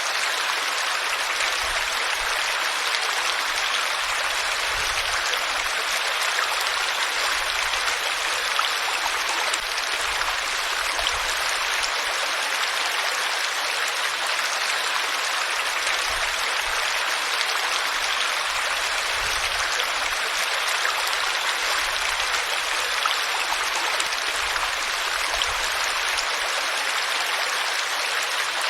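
Steady rush of flowing water, like a stream running over rocks, an even hiss with no break or change.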